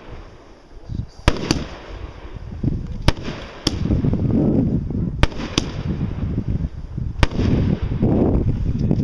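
Aerial fireworks going off: seven sharp bangs, several in close pairs, with a steady low rumble building up from a little over a third of the way in.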